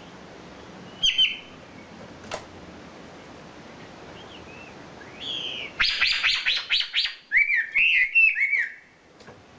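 Wambi bird singing: a short chirp about a second in, then from about five seconds a rapid run of sharp chirps, followed by a string of quick up-and-down whistled notes.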